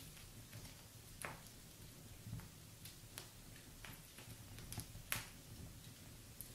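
Wood fire in a fireplace crackling softly, with irregular sharp pops and snaps from the burning logs; the loudest pop comes about five seconds in.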